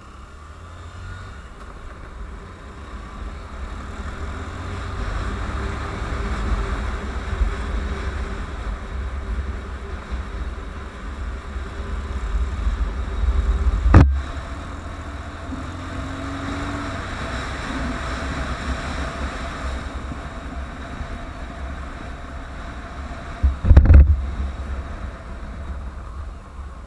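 Honda CBF150 motorcycle's single-cylinder engine running under way, with heavy wind rumble on the microphone. Two sudden loud knocks or buffets hit the microphone, one about halfway through and one near the end.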